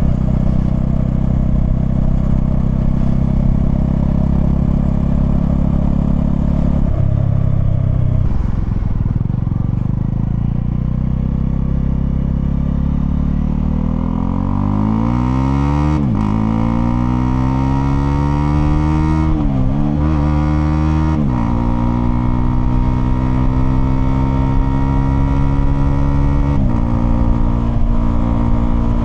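Honda CL250's single-cylinder engine running steadily at low revs, then accelerating through the gears: the pitch climbs, drops briefly at about four gear changes, and climbs again into a steady cruise.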